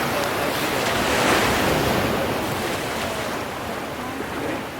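Ocean waves breaking and washing in as a steady surf noise that swells to a peak about a second in, then slowly eases.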